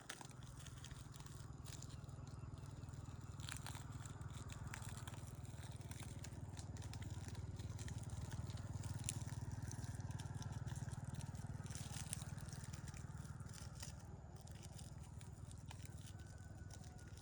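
A small engine or motor running steadily, with scattered light clicks and crackles over it.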